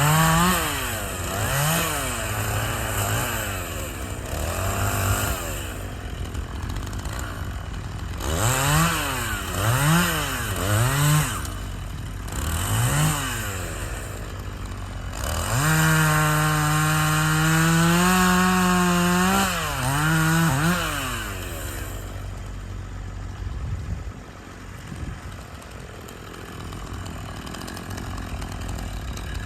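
A two-stroke chainsaw revving up and down in short blips, then held at high revs for about five seconds in the middle, as when cutting through wood, before dropping back to a lower, quieter run near the end. A steady low rumble runs underneath.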